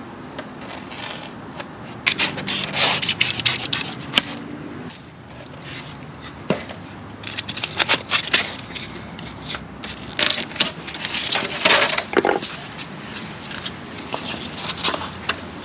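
Foam being fitted back into an RV cargo door: irregular crackling and scraping in several clusters of short bursts.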